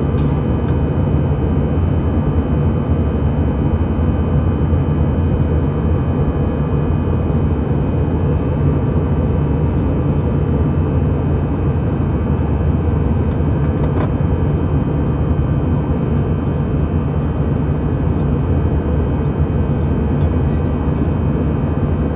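Airbus A320 in flight: a steady drone of jet engine and airflow noise, strongest in the low end, with a few faint steady tones above it. It stays even throughout.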